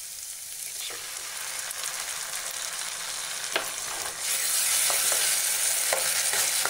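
Onions, green chillies and capsicum sizzling steadily in hot oil in a metal kadai, with a few clinks of a steel spoon. About four seconds in the sizzle gets louder as tomato purée is poured into the hot pan and stirred in.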